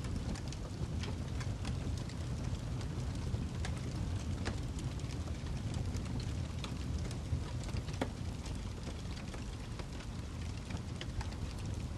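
Wood fire in a fireplace, a burning log crackling with irregular sharp pops over a steady low rumble of the flames.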